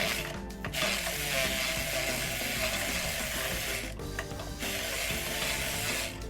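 Ratchet wrench with an extension and 14 mm socket clicking rapidly as it works an intake manifold bolt loose, in two spells with a short pause about four seconds in.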